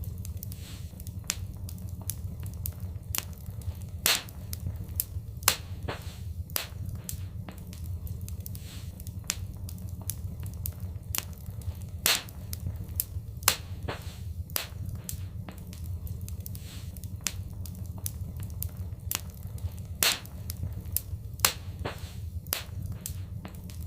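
Wood fire in a fireplace crackling, with irregular sharp pops over a steady low rumble; half a dozen pops stand out louder than the rest.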